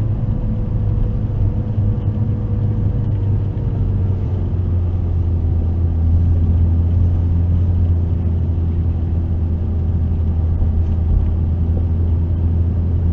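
McLaren 650S's twin-turbo V8 running steadily at low revs, a loud low drone whose pitch drops slightly a few seconds in as the car eases off.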